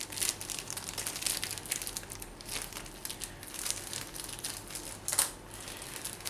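Rustling and irregular small clicks of computer cooling hardware and packaging being handled, with one sharper click about five seconds in.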